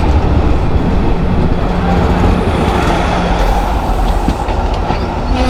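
A train rolling along the tracks with a loud, steady rumble.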